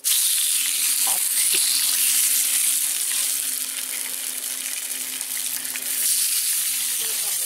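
Meat sizzling loudly on a hot cooking surface, starting suddenly and holding steady, with a steady low hum underneath.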